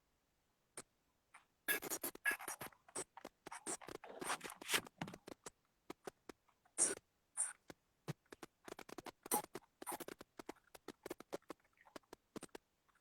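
Irregular rustling, scraping and clicking, many short sounds in quick succession, beginning about a second and a half in.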